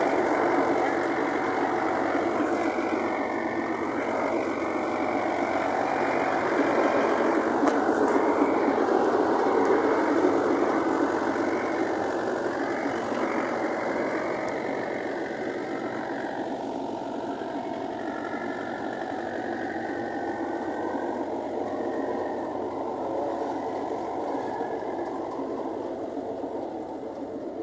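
Large tractor engine running steadily, growing gradually quieter over the second half.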